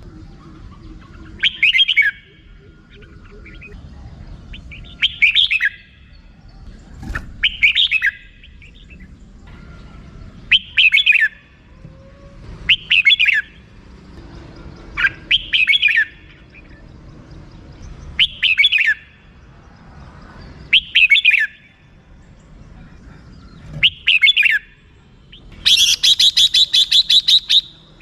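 Red-whiskered bulbul calling: short chattering phrases repeated about every two and a half seconds, then near the end a longer rapid rattle of "rik" notes.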